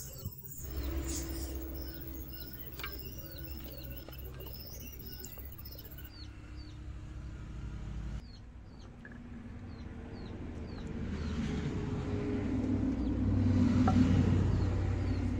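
A small bird chirping over and over in short high notes above a low, steady rumble. The rumble swells to its loudest near the end and then fades.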